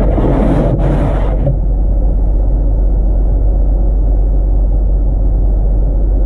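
Steady low rumble of a car idling with the defroster running. Two short rushes of hiss-like noise come in the first second and a half.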